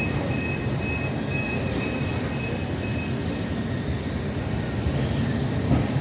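Tram running with a steady low rumble. Over it, a short high beep repeats about twice a second and stops a little over halfway through.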